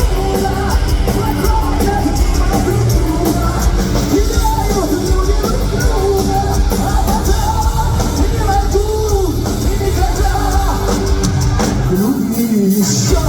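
A heavy metal band playing live, with a bending lead melody over distorted guitars, bass and drums. Near the end the low end drops out for about a second before the full band comes back in.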